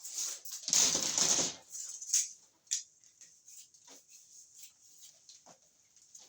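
Handling noises during electrical work: a brief scraping rustle about a second in, then scattered light clicks and taps.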